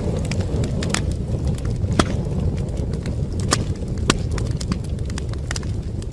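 Wood fire burning in a fireplace: a steady low rumble of flames with irregular sharp crackles and pops of burning wood. The loudest pops come about two seconds in and again about four seconds in.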